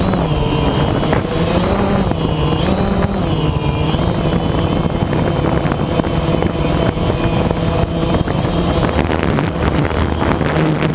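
A motor vehicle's engine running steadily and loudly, its pitch rising and falling a little every second or two with the throttle.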